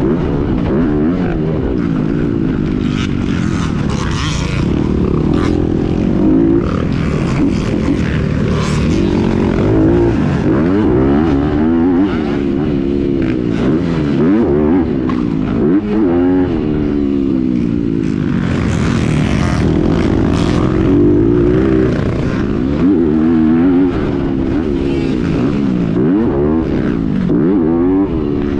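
Dirt bike engine running hard, its pitch climbing and dropping again and again as the throttle is opened and shut.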